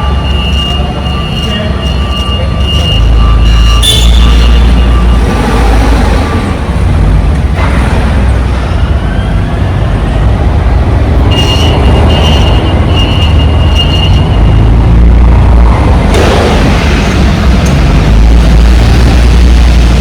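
Steady deep rumble of a heavy vehicle running, with a thin high whine that comes and goes twice.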